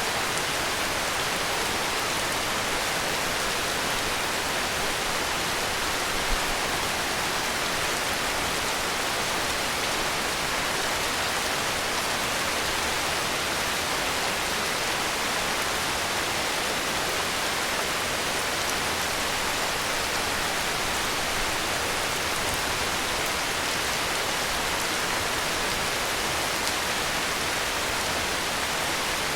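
Heavy rain falling steadily, an even, unchanging hiss.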